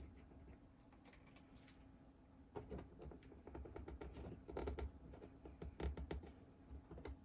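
Faint, irregular clicks and light knocks of small parts and a hand tool being handled during hands-on installation work, starting about two and a half seconds in, over a low steady hum.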